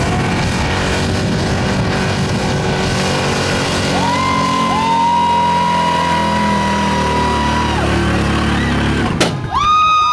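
1979 Ford F-250's gas engine running at full throttle, pulling a truck-pull sled, with a steady high whine held through the middle. A sharp bang comes near the end, and right after it the engine revs higher.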